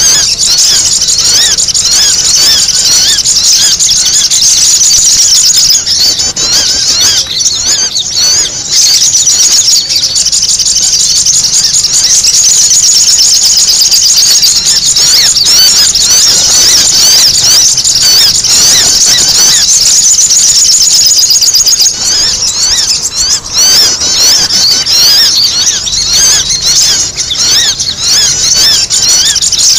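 Sogon (sogok ontong) birds calling noisily together: a dense, unbroken stream of rapid, high-pitched twittering chirps, the agitated 'ribut' call used as a lure recording for trapping this bird.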